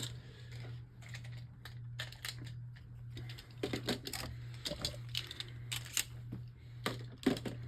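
Irregular light plastic clicks and rattles as a Beyblade Burst top is handled and fitted to its plastic launcher, over a steady low hum.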